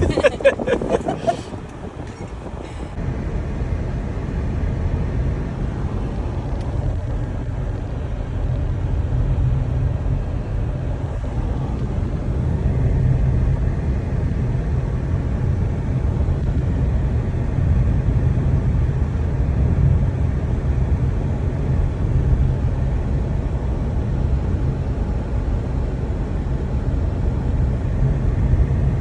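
Pickup truck driving, heard from inside the cab: a steady low engine and road rumble that gets a little louder a few seconds in.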